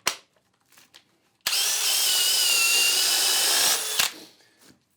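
Cordless hammer drill motor running steadily for about two seconds with a high whine, then stopping abruptly, followed by a knock.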